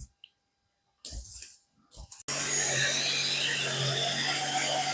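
Mattress vacuum switched on with a click a little over two seconds in. Its motor then runs steadily with a high whine over a low hum.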